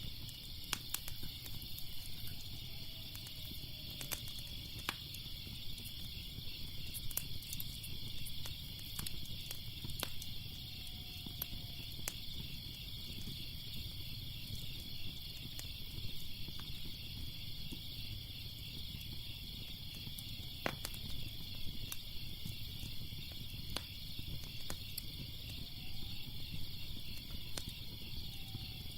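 Crickets chirping in a steady, pulsing chorus, with sharp crackles and pops of a wood fire scattered irregularly throughout over a low rumble.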